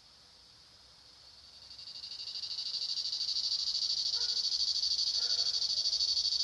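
Cicada buzzing: a high, pulsing drone that swells over about two seconds into a steady loud buzz.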